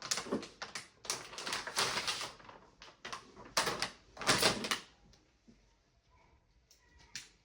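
Plastic food-storage containers and lids being handled and sorted, giving a run of quick plastic clattering and rustling that stops about five seconds in.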